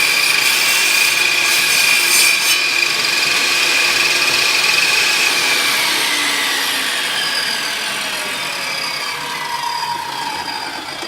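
Table saw ripping a wide board: a steady high whine with a cutting rasp. After about six seconds the pitch falls steadily as the blade slows, with the board binding on the blade as its unsupported back end droops.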